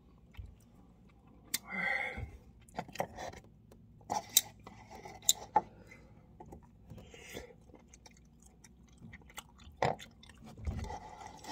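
A person chewing a mouthful of instant noodles close to the microphone, with sharp wet mouth smacks and clicks scattered through, most of them between about one and a half and six seconds in and one more near ten seconds.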